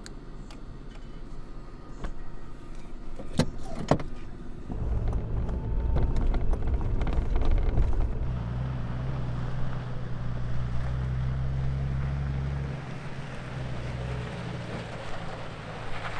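Toyota Tacoma pickup driving slowly in four-wheel drive over a rough dirt road: a steady low engine drone with tyre and road noise, after two sharp knocks a few seconds in.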